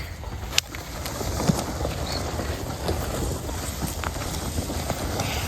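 Outdoor rumble of wind buffeting the microphone, with two sharp clicks about half a second and a second and a half in, and a short high chirp a little after two seconds.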